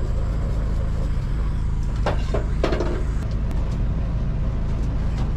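Steady low hum of a portable generator running, with a few short knocks about two seconds in.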